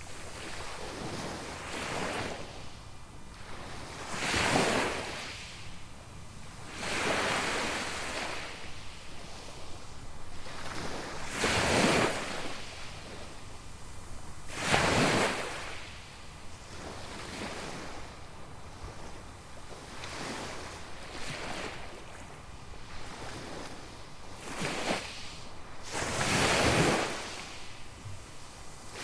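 Small waves breaking and washing up a sandy beach, a surge every few seconds, with some wind on the microphone.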